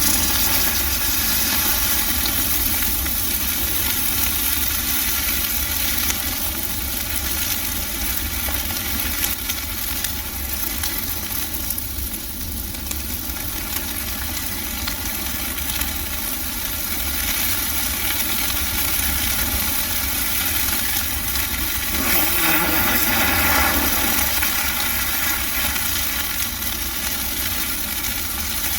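A large bonfire of Christmas trees burning, a steady noise that swells briefly about 22 seconds in.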